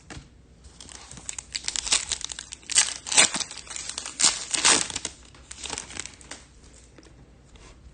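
Foil wrapper of a 2022 Topps Chrome trading-card pack being crinkled and torn open, in irregular crackling bursts that die down near the end.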